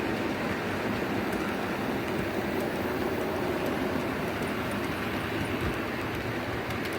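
Model train running along the track: a steady rumble from the wheels on the rails, with a few faint ticks near the end.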